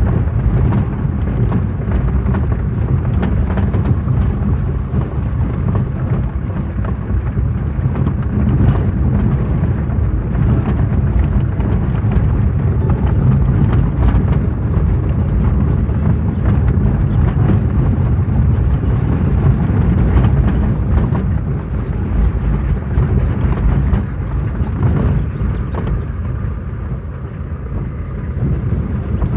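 Loud, steady low rumbling noise with no clear tones.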